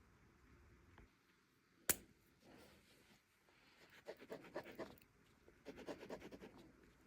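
Two runs of quick, faint scratching strokes of a drawing tool on paper, preceded by one sharp click about two seconds in.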